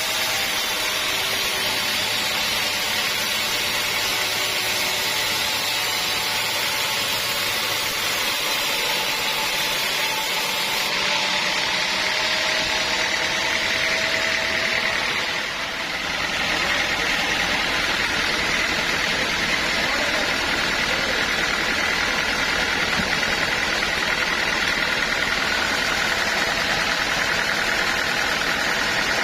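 Sawmill saw and its drive running steadily with a loud, continuous mechanical noise and a high whine; the level dips briefly a little past halfway.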